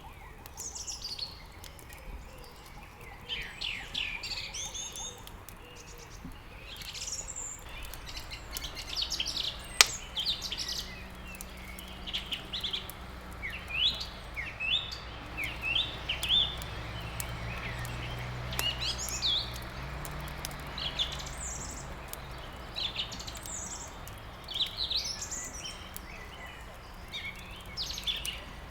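Several songbirds chirping and singing in a busy dawn-chorus mix of quick rising and falling calls, with one sharp crack about ten seconds in and a faint low rumble underneath.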